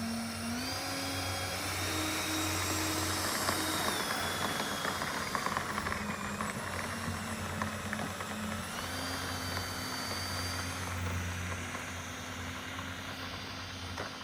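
Electric ducted fans of an E-flite Airbus A320 RC jet model running with a steady rushing hiss and a high whine. The whine steps up and down in pitch as the throttle is moved.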